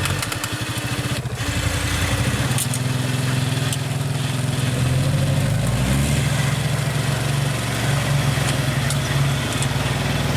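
Off-road 4x4's engine running and revving, its pitch stepping up about two and a half seconds in and rising again around six seconds in.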